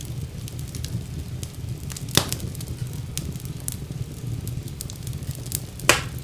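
Fire burning in a fireplace: a steady low rumble of flames with constant light crackling and two loud sharp pops, about two seconds in and near the end.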